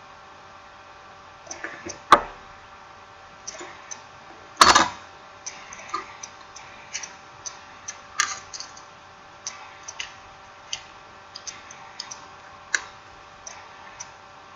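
Irregular small clicks and taps from handling a smartphone's parts and small tools on a work surface during reassembly, with two louder knocks about two and four and a half seconds in.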